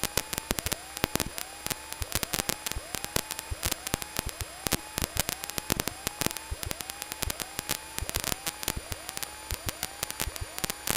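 Crackling static and clicking interference on the recorded air-traffic-control radio feed between transmissions. Under it a faint rising chirp repeats about twice a second.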